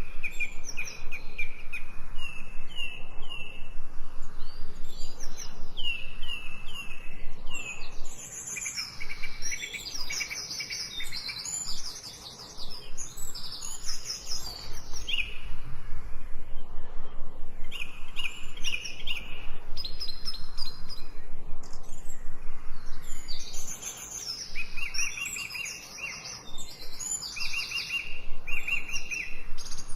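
Several songbirds singing at once: repeated runs of short chirping notes and trills overlap throughout.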